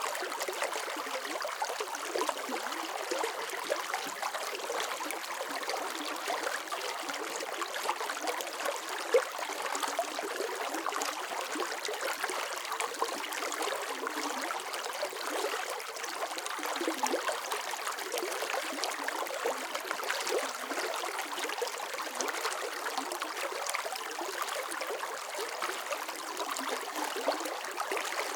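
Running water flowing steadily, a continuous splashing with small irregular trickles and gurgles and no deep rumble.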